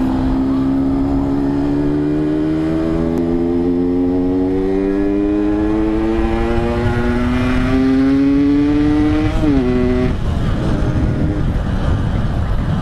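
Yamaha RX-King's 135 cc two-stroke single-cylinder engine accelerating under load, its note climbing slowly and steadily. About nine and a half seconds in the pitch dips briefly, then the engine note drops away about a second later, leaving a steady rushing noise.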